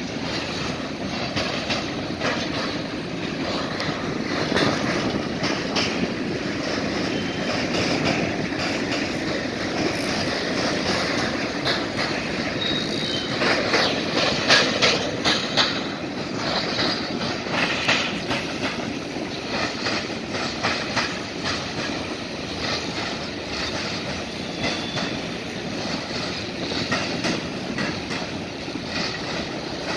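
Freight cars rolling past, their wheels banging and clattering over a railroad diamond crossing in uneven runs of bangs, loudest about halfway through. A few short, faint high wheel squeals.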